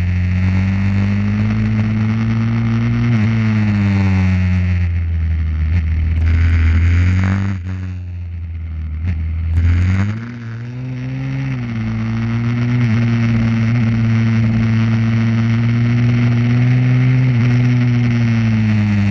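Pit bike's single-cylinder engine running hard, its pitch rising and falling slowly with the throttle. The revs drop off about eight seconds in, then climb again.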